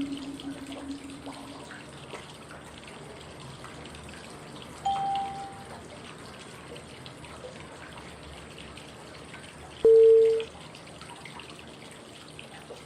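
Steady flowing-water white noise with a short pitched cue tone every five seconds, marking the inhale, hold and exhale steps of 5-5-5 breathing. A low tone fades out at the start, a higher one sounds about five seconds in, and a louder middle-pitched one comes about ten seconds in.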